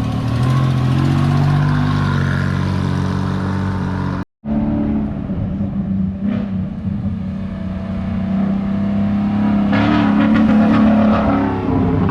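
Car engines revving and accelerating hard. The first engine's pitch climbs over the first couple of seconds. After an abrupt cut about four seconds in, a second engine runs steadily, then revs up again near the end.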